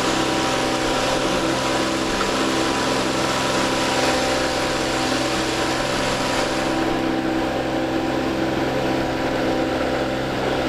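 A sailboat's engine running steadily as the boat motors along: a constant hum of several steady tones under an even rushing hiss. The highest part of the hiss drops away about seven seconds in.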